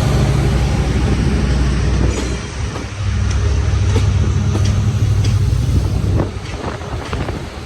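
A diesel-hauled passenger train pulling into a station, its locomotive engine running with a steady low drone. Wheels click over the rail joints in the second half, and the engine sound falls away about six seconds in.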